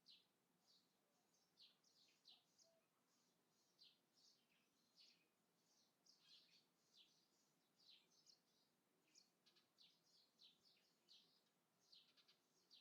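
Faint birds chirping: many short, high chirps, each falling in pitch, repeating a few times a second over a faint outdoor hush.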